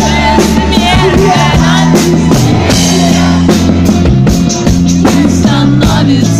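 Live rock band playing loud: drums, bass and a wavering lead melody line.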